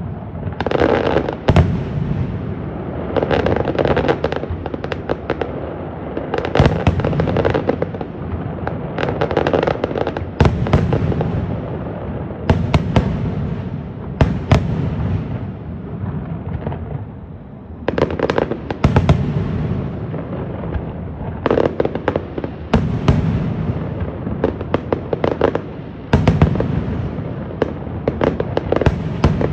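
Fireworks display: many sharp bangs in quick succession, shells bursting one after another. The barrage eases for a moment about halfway through, then picks up again.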